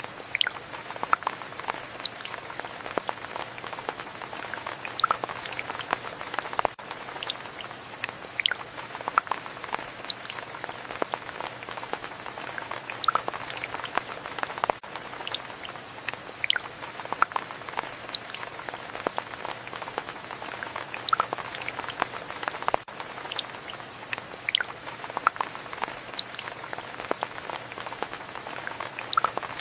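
Rain falling over a steady hiss, with many separate drops ticking and dripping at irregular moments.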